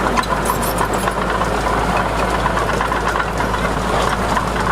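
Heavy diesel engine of earthmoving machinery running steadily, with scattered light clicks over it.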